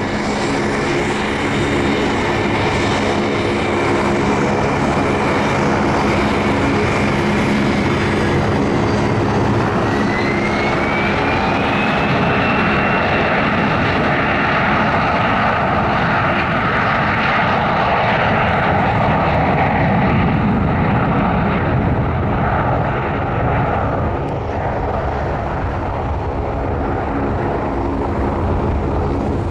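Aircraft engines running loud and steady. About ten seconds in, a high whine rises, and a louder roar builds and holds for some ten seconds before easing off.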